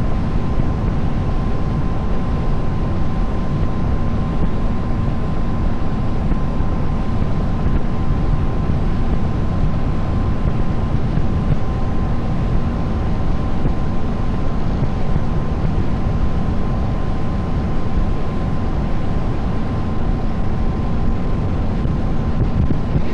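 Tour boat's engine running steadily under way: a constant drone with a thin steady whine through it, mixed with water and wind rush.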